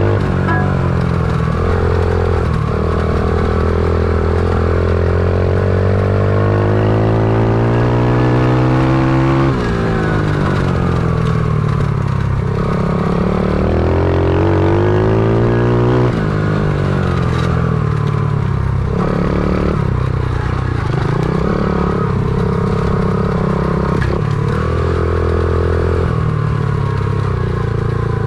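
Stomp pit bike engine under load, its pitch climbing in two long pulls that each drop off sharply, as on a gear change or closing the throttle, then rising and falling in shorter bursts of throttle.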